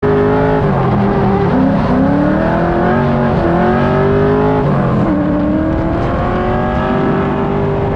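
Chevrolet Corvette C5's LS1 V8 engine revving hard, its pitch dropping and climbing again twice as the throttle is worked.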